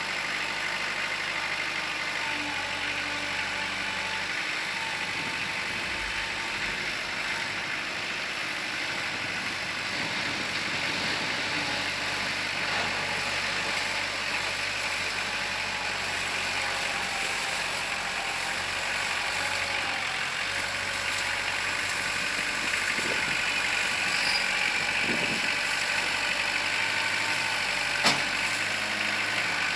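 Kubota L4600 tractor's diesel engine running steadily, with a single sharp click near the end.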